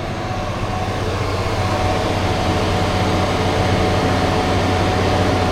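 Grain dryer machinery and the tractor that powers it running steadily as the dryer starts filling: a low hum with a thin steady whine over a rushing noise, which builds over the first couple of seconds and then holds.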